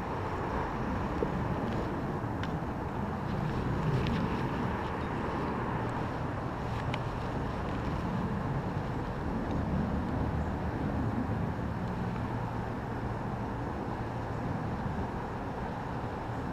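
Steady drone of many honeybees around an open, crowded hive, with a few light clicks.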